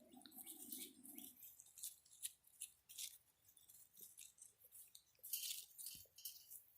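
Faint, scattered clicks and scratchy rustles of Border Collie puppies chewing and scrabbling at close range.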